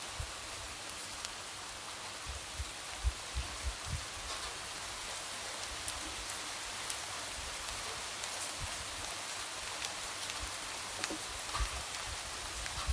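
Steady light rain: a constant hiss of falling rain with scattered individual drops ticking and tapping.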